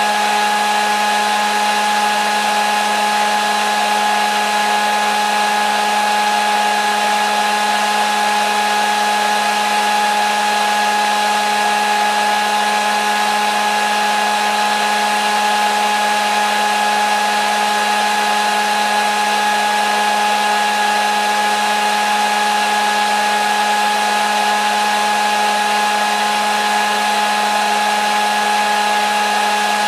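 Hair dryer running continuously: a steady rush of blown air over a constant motor hum and whine that never changes in pitch or level.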